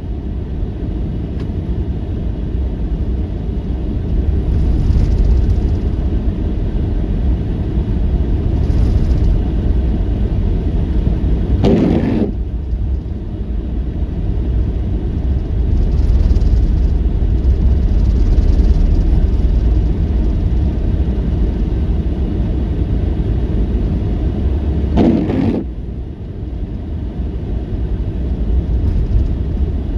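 Steady low rumble of strong wind buffeting the microphone, with two short louder gusts about twelve and twenty-five seconds in.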